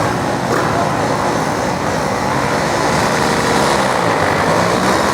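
Engines of dirt-drag racing machines running steadily at the track, under a steady wash of crowd chatter.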